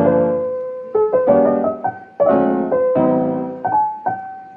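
Background piano music: slow chords and single melody notes, each struck and left to fade.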